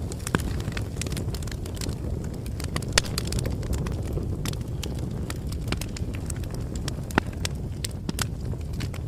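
Wood campfire crackling over a steady low rumble, with scattered sharp pops; the loudest pop comes about three seconds in.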